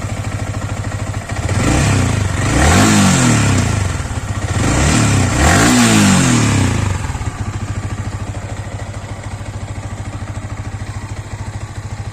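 Motorcycle engine idling, blipped twice so the revs rise and fall, then settling back to a steady idle. The bike has just been serviced with fresh engine oil to cure a tappet noise.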